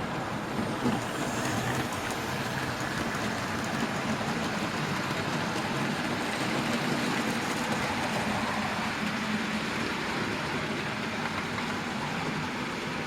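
00 gauge model trains running on a layout: a steady mix of small electric motors whirring and metal wheels running on the track.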